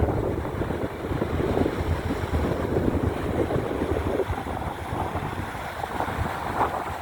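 Wind buffeting the microphone in uneven gusts over the wash of sea waves.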